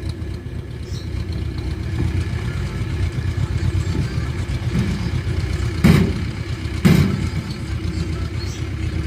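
Powertrac tractor diesel engine running steadily with a low, pulsing beat. About six and seven seconds in come two heavy thumps, a second apart.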